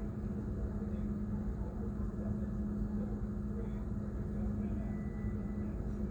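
Steady low hum of a running engine, a constant drone with rumble beneath it and no distinct events.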